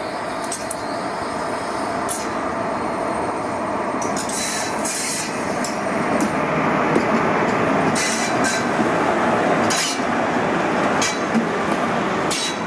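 Passenger train of coaches rolling past at low speed behind an electric locomotive, a steady rumble of steel wheels on rails that slowly grows louder. A few brief sharp high-pitched bursts come from the wheels and track.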